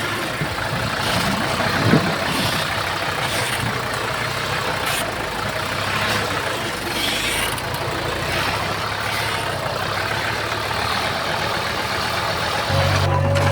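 Heavy diesel earthmoving machinery running steadily, with a brief knock about two seconds in. Near the end a deeper, steadier engine note takes over.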